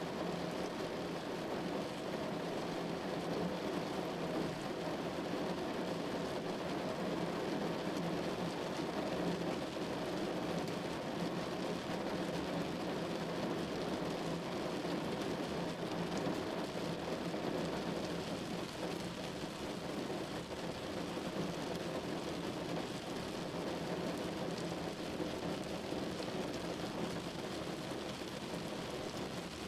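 Rain falling steadily on a window: an even, unbroken rush with no single drops or claps standing out.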